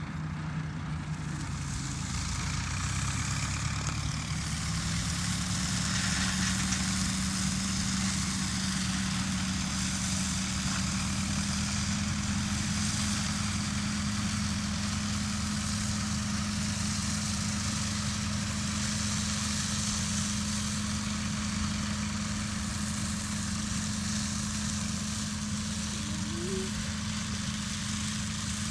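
Tractor engine running, its pitch rising over the first few seconds as it speeds up and then holding steady.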